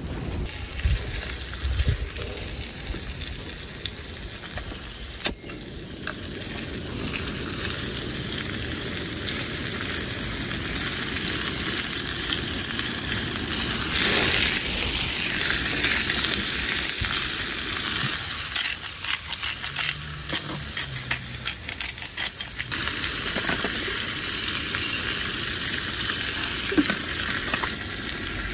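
Firefly squid and torn cabbage frying in olive oil in a skillet, sizzling steadily and growing louder a few seconds in. Long cooking chopsticks click against the pan in a quick run past the middle as the food is stirred and tossed.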